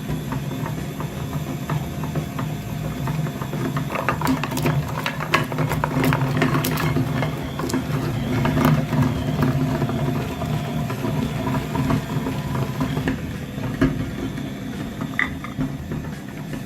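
A small motor running with a steady hum, with clicking and rattling of mechanical parts, busiest from about four to eight seconds in.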